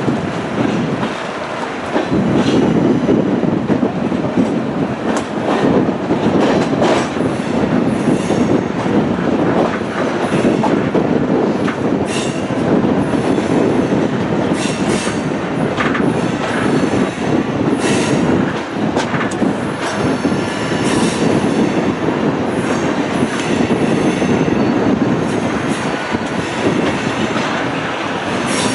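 Royal Gorge Route Railroad passenger train rolling along the track: a steady rumble of wheels on rail with repeated clicks, and high wheel squeal rising and fading several times.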